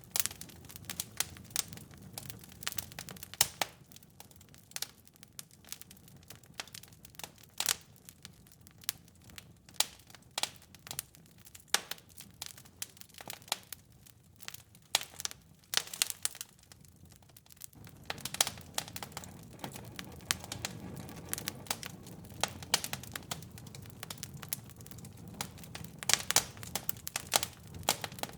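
Wood fire in a fireplace crackling and popping: irregular sharp snaps over a low steady rumble of burning, the rumble growing louder about two-thirds of the way through.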